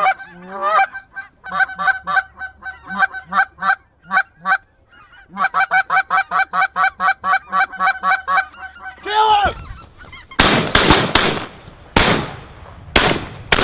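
A flock of geese honking rapidly and continuously. From about ten seconds in, this gives way to a quick volley of about five shotgun blasts fired at the birds.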